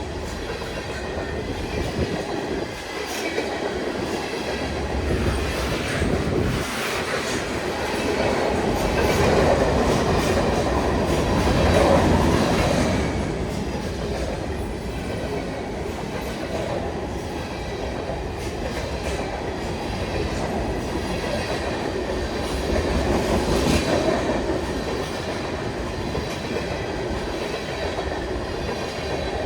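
A long freight train's cars rolling past at about 32 mph. A steady wheel-on-rail rumble with clickety-clack over the rail joints swells louder about nine to twelve seconds in.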